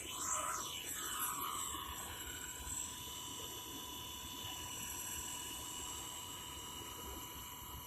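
Blade 230S V2 electric RC helicopter's brushless motors and rotors whining as it flies fast circuits, the pitch dropping as it passes by during the first second or two, then a steady, fainter whine as it flies farther off.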